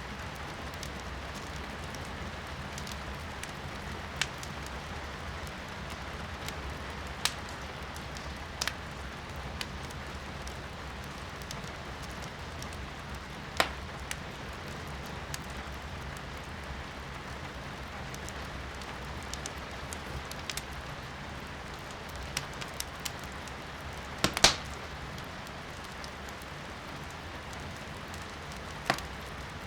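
Wood fire crackling in a fireplace, with sharp pops every few seconds and a loud cluster of pops late on, over a steady hiss of rain heard from indoors.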